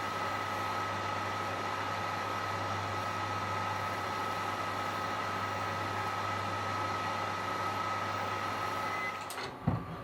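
Microwave oven running at 500 W, a steady hum with a high whine that cuts off about nine seconds in as the heating stops, followed by a sharp knock.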